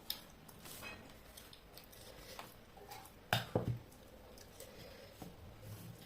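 Close-up eating sounds from a meal of rice and chicken curry: wet chewing and squishing with scattered small clicks, and a short cluster of sharper, louder knocks about halfway through.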